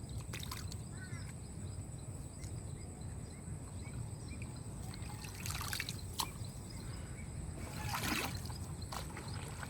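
Water trickling and splashing over a steady low rumble, with a short splash about halfway through and a louder one near the end.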